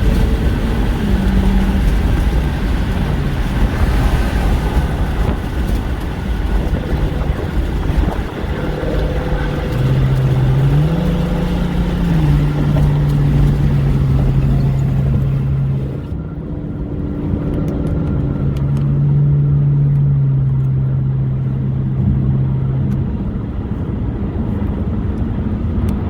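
Car engine running while driving, with road and wind noise; the engine note holds a steady pitch and then shifts up or down several times. About two-thirds of the way through, the hiss drops away and the sound becomes duller.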